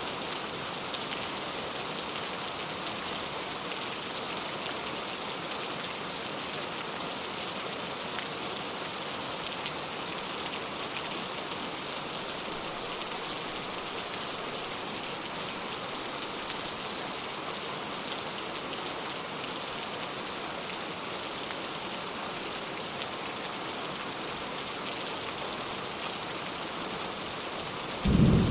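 Steady rain falling in an even hiss. Just before the end a sudden loud, low clap of thunder begins.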